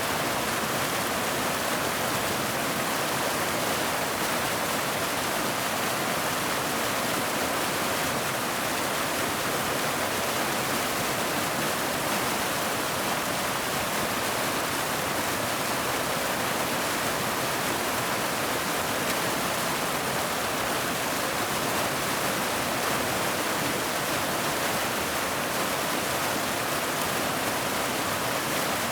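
Waterfall: water falling and splashing in a steady, unbroken rush with no change in level.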